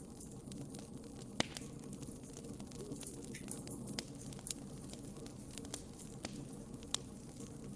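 Wood fire burning in a fireplace, crackling: irregular sharp pops and snaps over a steady low hiss of flames, with sharper pops about a second and a half in and near the end.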